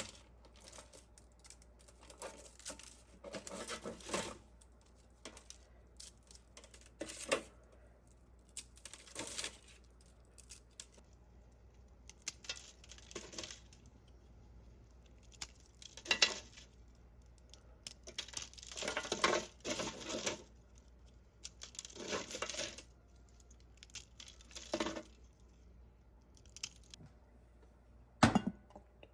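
Intermittent kitchen handling sounds: about a dozen short rustling or scraping strokes and light clinks, some lasting about a second, with quiet gaps between them.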